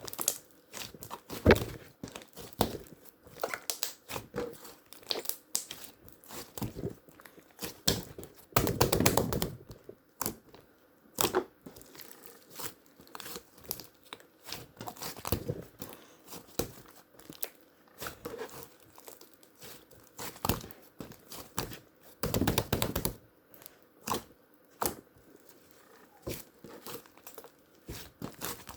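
Paper and tape being handled close up: scattered crinkles and small clicks, with two longer tearing sounds about nine seconds in and again around twenty-two seconds.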